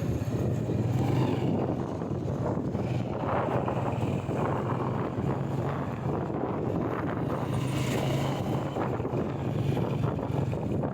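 Motorcycle engine running at a steady speed, with wind buffeting the microphone as the bike rides along.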